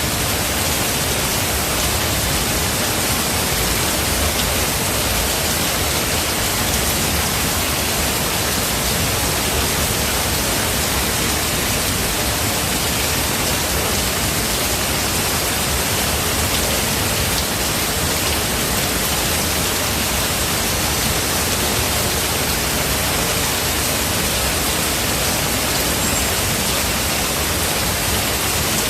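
Heavy rain falling steadily, an even dense hiss with no separate drops or thunder standing out.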